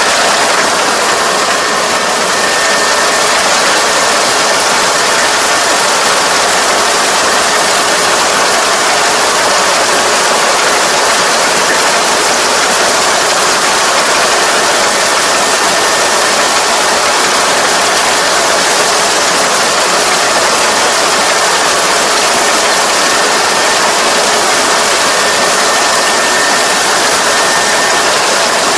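Combine harvester running steadily under load: the steady noise of its engine and threshing machinery.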